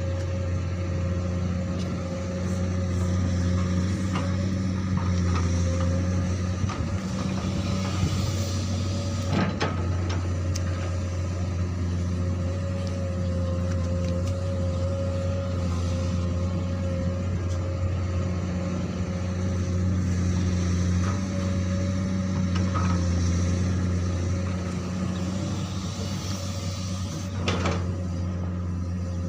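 Komatsu PC200 hydraulic excavator's diesel engine running steadily while digging, its drone swelling and easing a little with the work. A couple of sharp knocks stand out, one about a third of the way in and one near the end.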